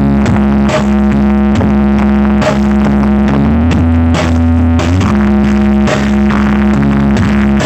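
Loud music played through a big 'sound horeg' carnival sound system, with heavy held bass notes and a steady beat landing a little more than once a second.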